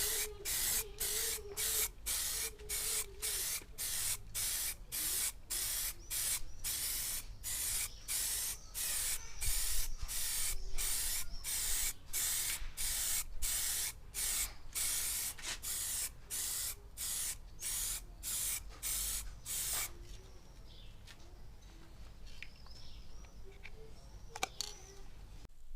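Clear lacquer being sprayed onto a plastic headlight lens: a loud hiss chopped by brief gaps about twice a second, stopping about 20 seconds in. A faint click follows near the end.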